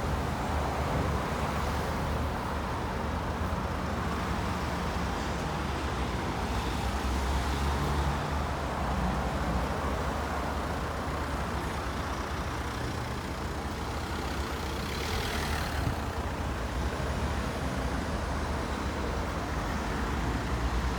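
Road traffic at a busy junction: buses, cars and a truck running and passing, with a steady deep diesel engine rumble throughout. A brief hiss about three-quarters of the way through.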